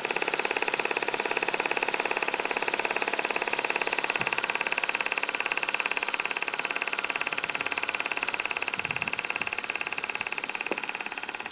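Small model marine steam engine with 5/8-inch bore and stroke running steadily at a fast, even beat, over a steady hiss. It eases slightly quieter near the end.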